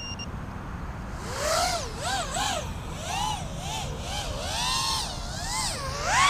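LitisRC Cicada 180 racing quadcopter's motors and three-blade DAL T4045 props whining in flight, the pitch rising and falling quickly with the throttle, over a steady low rush.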